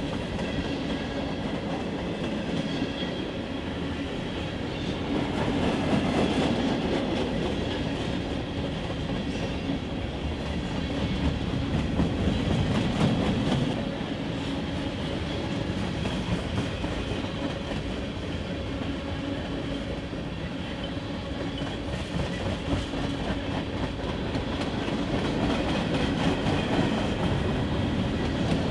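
Freight train cars rolling steadily past, wheels clacking over the rail joints, the sound swelling and easing as the cars go by.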